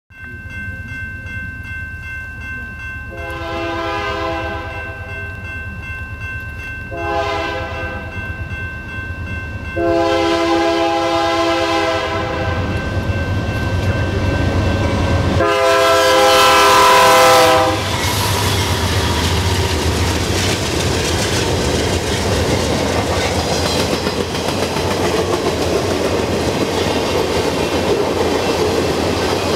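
Two GE C44-9W diesel freight locomotives approaching over the low rumble of their engines, the lead unit's air horn sounding four blasts, the second short and the last two long, ending about 18 seconds in. The locomotives then pass close by and the loaded flatcars follow, their wheels clacking over the rail joints.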